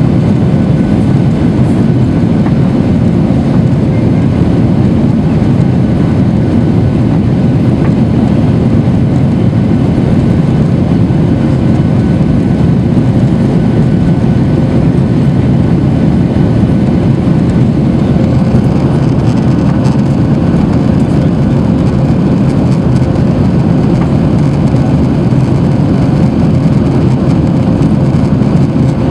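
Boeing 737-800 with its CFM56 jet engines running, heard inside the passenger cabin as a loud, steady, deep rumble of engine and air noise, with faint steady tones above it.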